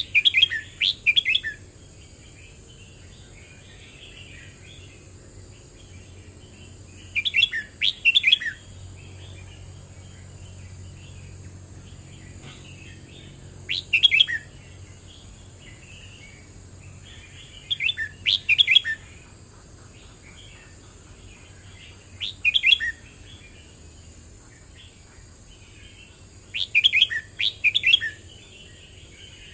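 Red-whiskered bulbul singing: six short, quick phrases of clear whistled notes, one every four to seven seconds, with faint softer chirps between them.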